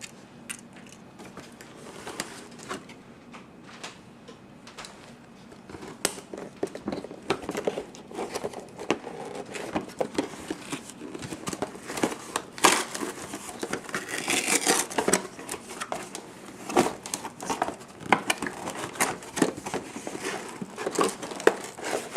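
Plastic toy packaging being handled and unpacked: crinkling and rustling with scattered clicks and taps, quieter at first and busier from about six seconds in.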